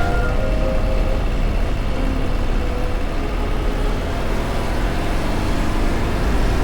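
Motorcycle engine running steadily on the road.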